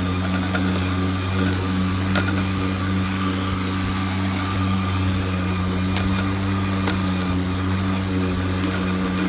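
Ego cordless electric lawn mower running under load as its blade cuts through thick 8 to 10 inch grass: a steady hum with a few sharp ticks.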